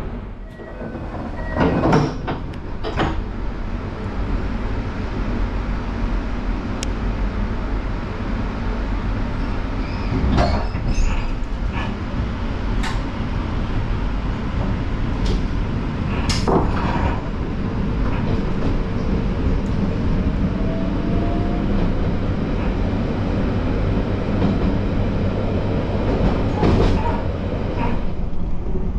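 Inside a running express train carriage: a steady rumble of wheels on rail, with sharp clacks every few seconds from rail joints. A faint rising whine comes in about two-thirds of the way through.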